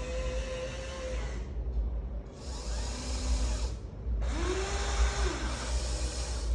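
Electric motors of a Huina 1593 RC excavator whining as its functions are driven, starting and stopping in short bursts: a steady whine that cuts off about a second in, a brief burst in the middle, and from about four seconds in a whine that rises and falls in pitch.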